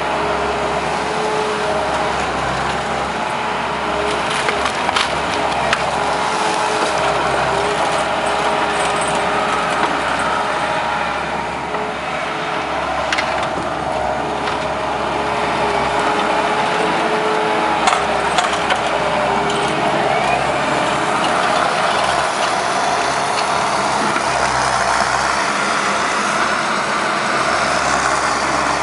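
Takeuchi TL150 compact track loader's diesel engine running steadily under load as its root rake drags through roots and sticks, with occasional cracks and knocks of wood.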